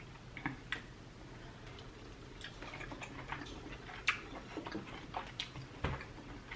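Quiet close-up eating sounds while eating steak: scattered, irregular soft clicks and smacks, with a few sharper ones about four and six seconds in.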